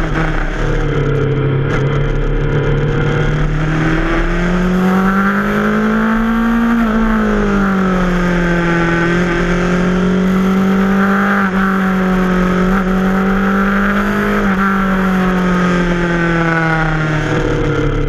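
Yamaha FZ6R's 600 cc inline-four engine under way, heard from the rider's seat. Its note climbs from about four seconds in, peaks a few seconds later and falls back, then holds fairly steady with a few brief dips.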